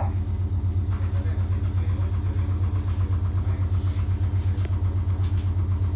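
Steady low hum of a stopped electric train's onboard equipment, heard inside the passenger car, pulsing rhythmically several times a second, with a few faint clicks about two thirds of the way in.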